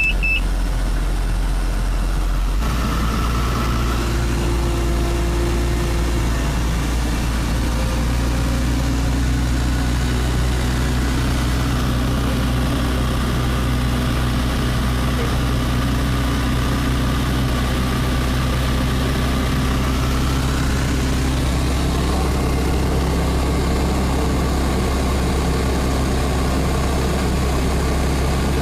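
Pushback tug's diesel engine running steadily while pushing an Airbus A321 back, a loud low drone that deepens and fills out about two and a half seconds in.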